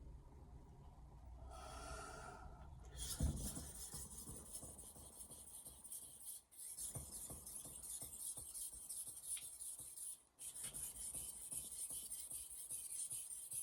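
Steel blade of a 210mm Misono Japanese knife being stroked across a whetstone: a continuous rasping scrape that starts after a short knock about three seconds in and breaks off briefly twice.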